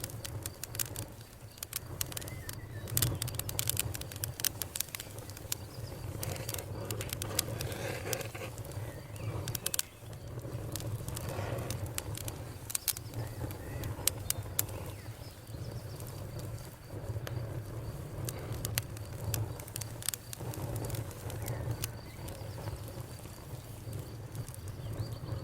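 Campfire crackling: wood snapping and popping in many irregular sharp cracks over a low, steady rumble of the flames.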